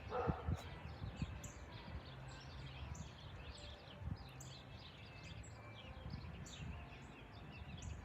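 Many short, high bird chirps throughout, over a faint low rumble with a few low thumps.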